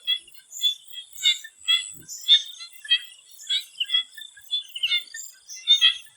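Swamp frogs calling, short rasping calls repeating about twice a second, over a steady high-pitched whine.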